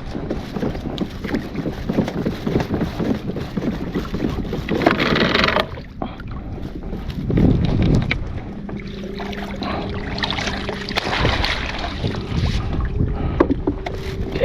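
Water splashing and lapping around a kayak, with wind buffeting the microphone and small knocks against the hull, and louder surges of splashing about five seconds in and again about eight seconds in.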